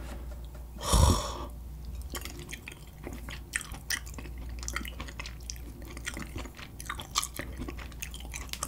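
A loud breathy sigh of regret about a second in, then close-miked chewing of spicy chicken feet, with a steady run of small wet clicks and smacks from the mouth.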